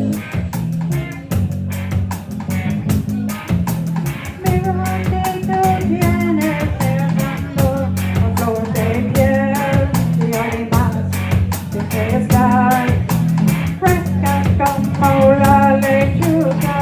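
Live rock band playing a song, with a steady drum beat, bass and electric guitar, and singing over it.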